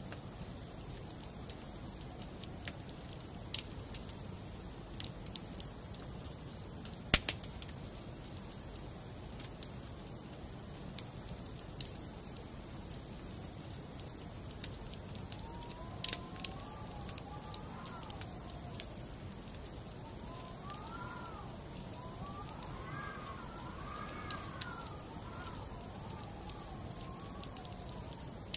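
Wood fire burning in a fireplace, logs crackling with a steady low hiss and frequent sharp pops, one loud pop about seven seconds in. In the second half a faint whistling tone rises and falls in several short wavering phrases.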